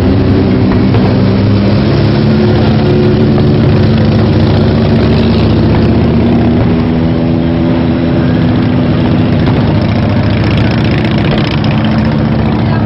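A motor engine running steadily at a near-constant pitch, loud and close.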